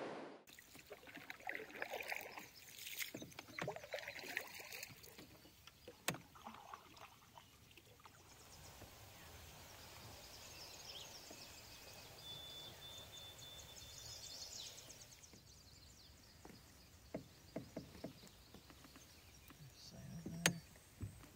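Faint sounds of a canoe being paddled on a calm lake: soft water swishes and scattered light knocks of the paddle against the hull. A thin, steady high note sounds for a couple of seconds in the middle.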